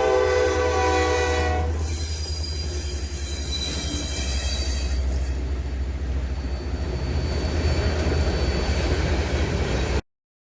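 Diesel locomotive air horn sounding, ending about two seconds in, followed by a freight train rolling past with a low rumble and a faint high wheel squeal. The sound cuts off suddenly near the end.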